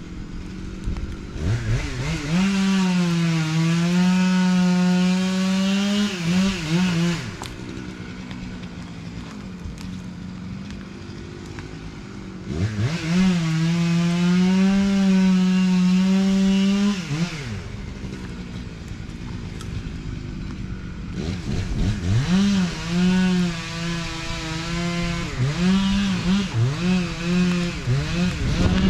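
Two-stroke chainsaw revved up to full throttle three times, each run lasting several seconds, dropping back to idle in between. The third run is choppy, with the throttle blipped on and off repeatedly.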